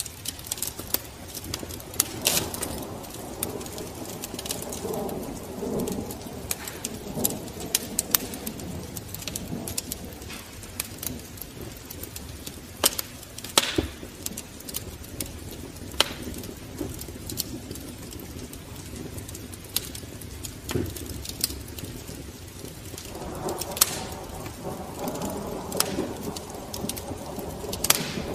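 Pigeons cooing, in two spells: from about two seconds in and again near the end. Scattered sharp crackles and pops run over a steady hiss.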